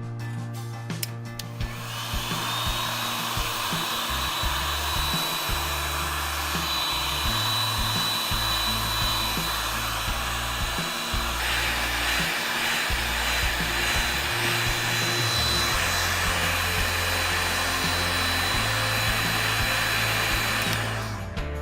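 Electric hot-air blower running steadily with a thin constant whine, starting about two seconds in and switching off just before the end, as used for heating PVC pipe to soften it.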